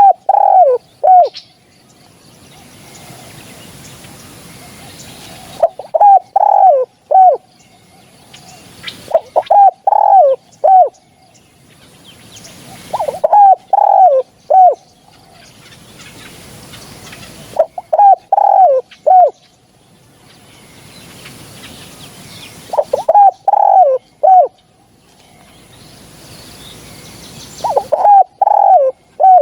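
Spotted dove cooing: a short phrase of several falling coos repeated about every four to five seconds, seven phrases in all.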